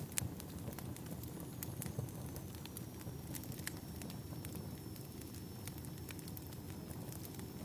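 Wood logs burning in a fireplace, crackling with frequent sharp pops over the steady low rumble of the flames. A faint thin high whine runs through it.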